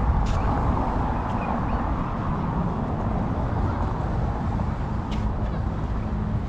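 Steady outdoor background noise with a heavy low rumble, broken by two faint clicks.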